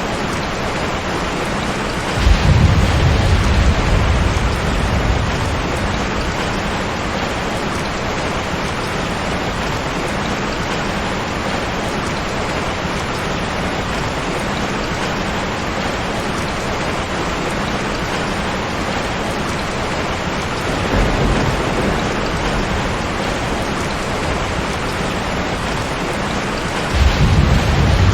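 Steady rain, with deep rolls of thunder: one starting suddenly about two seconds in, a weaker one about two-thirds of the way through, and another starting near the end.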